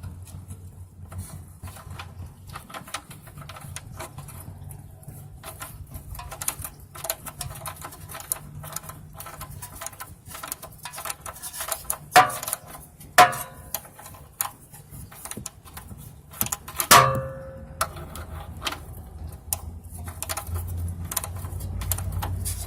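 Socket ratchet clicking in quick, uneven runs as it is worked back and forth to loosen a car's oil drain plug, with a few louder metallic knocks, one of which rings briefly.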